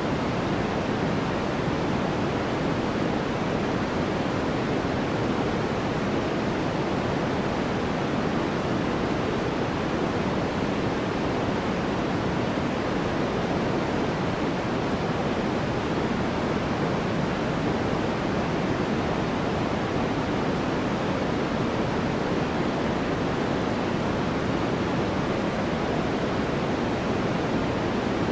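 Continuous generated sleep noise of the kind sold as white noise: an even, unchanging hiss, heavier in the low and middle range than in the highs.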